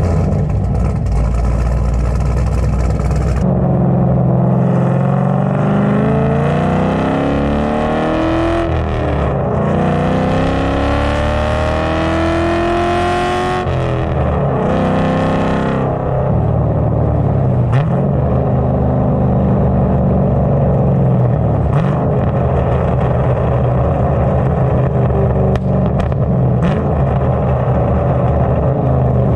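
Cammed LS3 V8 in a 2011 Camaro with a straight-piped, muffler-deleted exhaust, accelerating. The revs climb, break, climb again, then drop and settle into a steady cruise with a lumpy, loud exhaust note.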